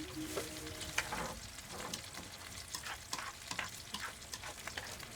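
Food frying in a pan, sizzling with irregular pops and crackles; a short squeak right at the start.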